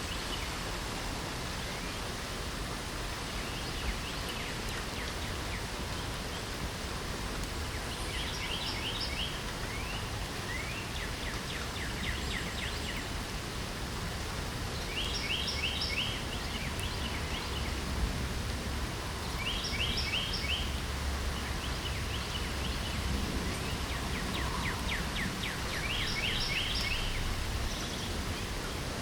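Steady hiss of light rain, with a songbird singing short, quick trilled phrases every few seconds over it.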